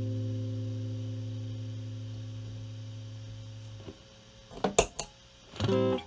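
Clean electric guitar chord from a Stratocaster with single-coil pickups ringing out and slowly dying away through a Marshall Valvestate clean channel. About four and a half seconds in come two sharp clicks, typical of a stompbox footswitch being engaged, and then fresh chords are struck just before the end.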